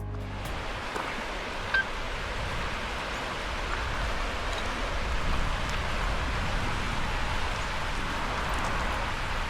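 A steady rushing noise with no pitch to it, with one brief click just under two seconds in.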